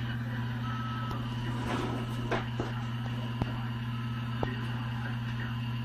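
A steady low electrical hum, with scattered light clicks and taps and a brief rustle about two seconds in.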